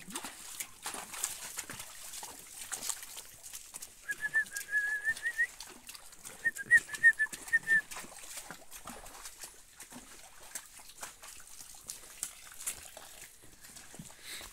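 A bird sings two short phrases of rapid chirping notes, about four and six and a half seconds in, over scattered knocks and rustling from cattle moving in a muddy pen.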